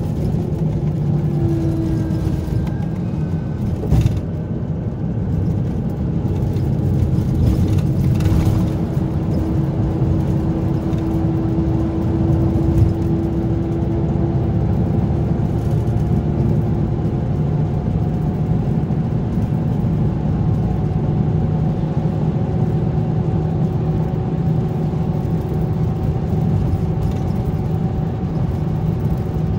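Scania K410B bus engine running steadily with a continuous low rumble and a faint steady whine. There is a short knock about four seconds in.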